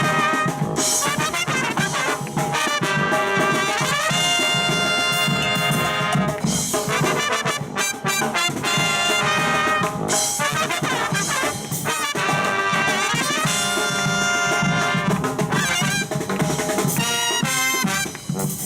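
A live brass band of trumpets and trombones playing a lively tune, with held chords and fast moving phrases.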